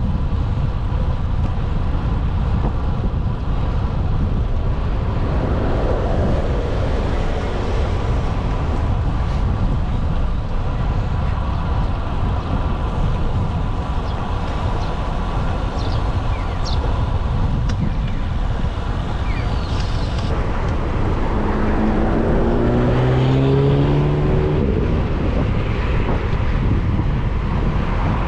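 Wind rumbling on the microphone of a moving rider in city traffic, with road noise throughout. About 21 seconds in, a motor vehicle's engine passes close by, its pitch rising slightly over a few seconds.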